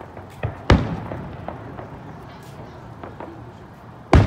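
Aerial firework shells bursting: two loud booms about three and a half seconds apart, the first under a second in and the second near the end, each trailing off in an echo, with scattered lighter cracks between them.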